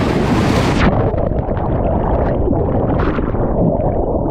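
Whitewater rapids rushing loudly. About a second in the sound turns suddenly muffled and low, with gurgling splashes, as the microphone goes under the water.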